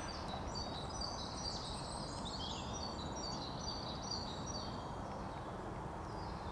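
Small songbirds chirping and trilling, with many short, high notes through most of the stretch, over a steady hiss of outdoor background noise.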